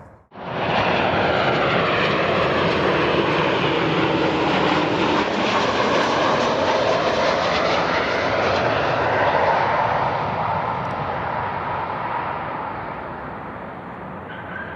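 Jet airliner's engines passing close by, a loud rushing roar with a whine that glides in pitch, starting abruptly and fading over the last few seconds as the aircraft moves away.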